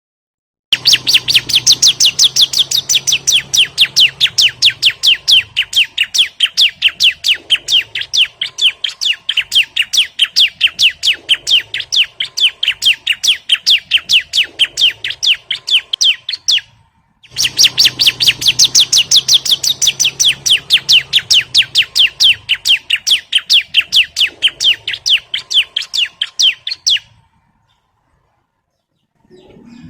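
Bar-winged prinia (ciblek) song used as a lure and tutor recording: a fast, even run of sharp, high chirps, about six or seven a second. It comes in two long runs, the first about sixteen seconds and the second about ten seconds, with a break of about half a second between them.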